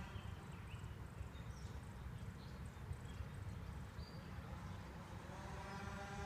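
An unidentified steady pitched hum with several overtones, the weird sound outside, comes in about five seconds in over a constant low rumble, with faint high chirps scattered throughout.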